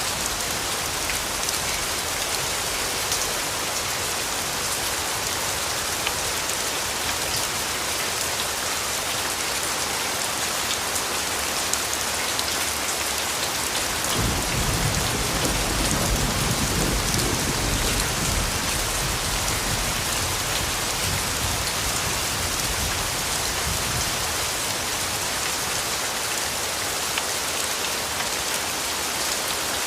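Steady rain falling. About halfway through, a low rumble of distant thunder comes in suddenly and fades away over several seconds.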